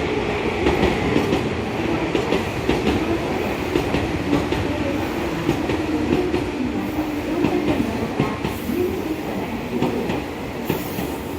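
Meitetsu 1030-series Panorama Super and 1800-series electric train pulling into the platform, its wheels clicking over the rail joints with a wavering hum from the running gear. Two short hisses come near the end.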